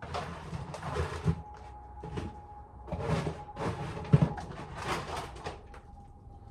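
Ears of corn being handled and dropped into a tub: an irregular run of knocks, thuds and rustling, the sharpest knock a little past four seconds in.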